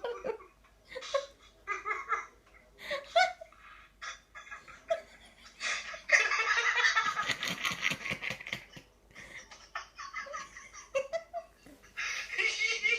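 Baby laughing and giggling in short repeated bursts, with a longer, louder stretch of laughter about halfway through.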